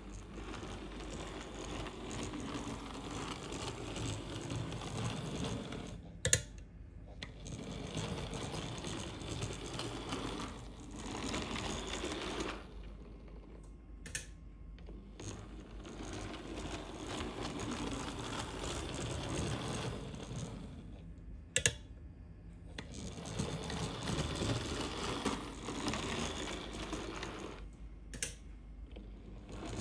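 Bachmann OO gauge N Class model locomotive running on track: the small motor whirring and the wheels clicking over the rails. It comes in several stretches, each cut off by a short gap with a sharp click.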